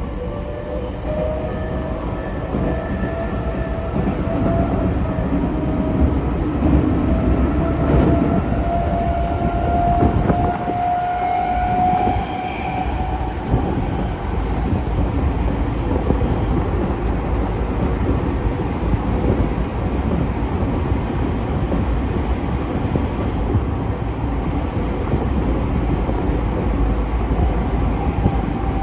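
Tokyo Metro 05 series train's Mitsubishi IGBT-VVVF inverter and traction motors whining with a slowly rising pitch as the train accelerates, over the rumble of wheels on rail. The whine stops about twelve seconds in, leaving the steady running noise of the train.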